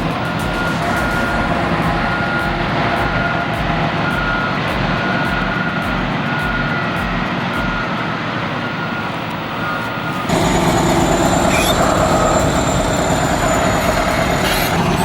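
Heavy earthmoving machine's diesel engine running, with a backup alarm beeping about once a second. About ten seconds in, the sound changes abruptly to a louder working machine with a thin high whine.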